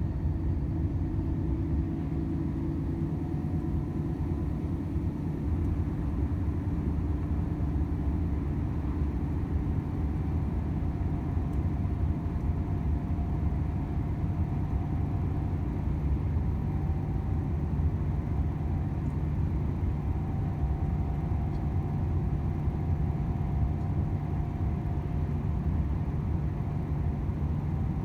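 Volvo FH 500 truck's 13-litre six-cylinder diesel running steadily while driving, a continuous low drone with road noise.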